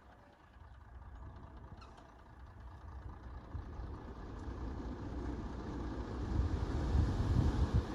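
Diesel engine of heavy earthmoving machinery, a bulldozer or dump truck, running with a low rumble that grows steadily louder, loudest near the end.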